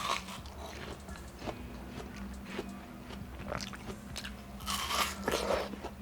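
Close-miked biting and chewing of juicy watermelon, with short crisp, wet crunches now and then. The loudest, longest crunch comes about five seconds in.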